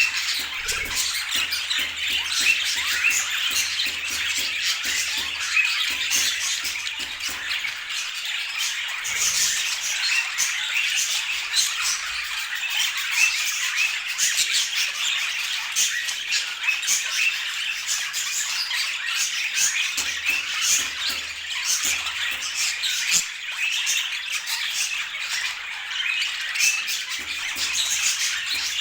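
Budgerigars chattering and squawking without a break, a dense stream of quick short notes.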